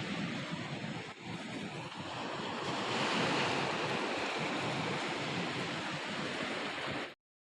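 Strong windstorm gusts blowing, a steady rushing noise that dips briefly about a second in and swells again around three seconds in, then cuts off suddenly near the end.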